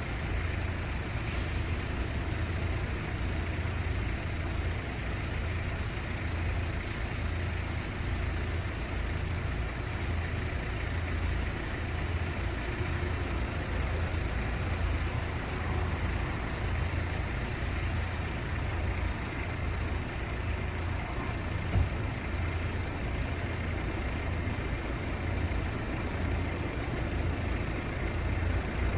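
Steady city street traffic noise with a constant low engine rumble.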